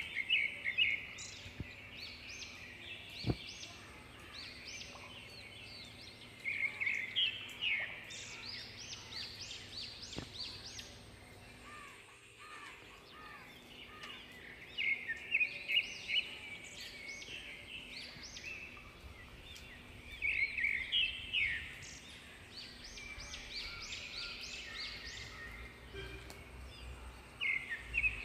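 A bird singing outdoors in short bouts of quick chirpy notes, a bout about every six or seven seconds.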